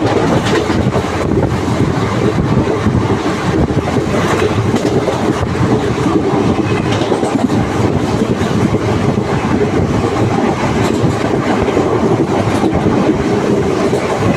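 Puri–Barbil Intercity passenger train running along the track, a steady loud rumble with the wheels clattering over the rail joints.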